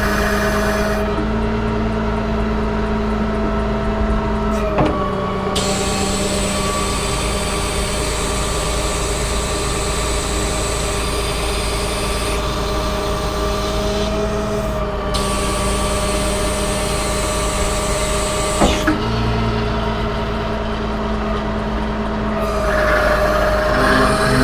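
Cummins diesel engine of a Versalift bucket truck running steadily while it powers the boom hydraulics as the boom is lowered to its stowed position. A hiss starts with a sharp click about five seconds in and cuts off with another click near nineteen seconds.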